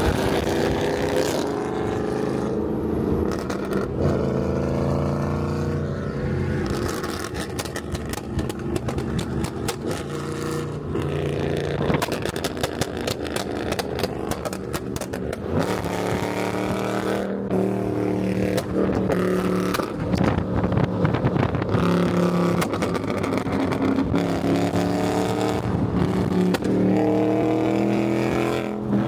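V8 car engine and exhaust accelerating hard through the gears: the pitch climbs, drops back at each shift and climbs again, several times over. About a quarter of the way in there is a stretch of rapid crackling.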